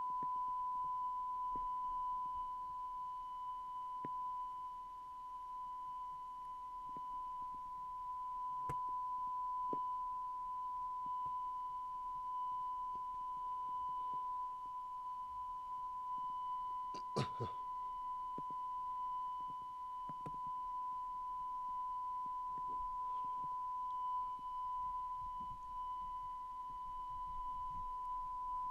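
Steady high tone from a VHS tape's audio track, a single unchanging pitch under faint hiss. It is broken by a few faint clicks and a sharper click or pop about two-thirds of the way through.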